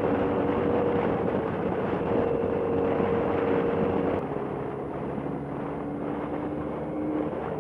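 Motorcycle engine and wind rush heard from the rider's helmet while riding at around 40 mph. About four seconds in, the engine tones change and the sound gets quieter.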